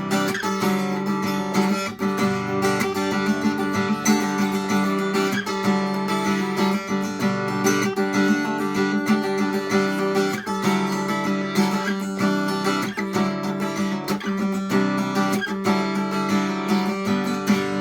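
Acoustic guitar strummed fast in a busy rhythmic pattern through a six-chord progression (C add9, slid-up D, G, D, A minor, slid-up B minor), with hammer-ons and percussive chops where the strings are stopped between strums.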